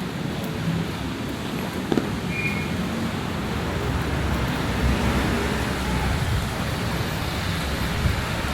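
Steady outdoor noise of heavy rain and road traffic going by, with a single short knock about two seconds in.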